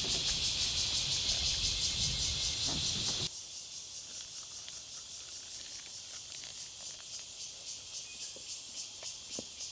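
Chorus of insects in summer, a steady high pulsing buzz. About three seconds in it drops abruptly to a quieter level.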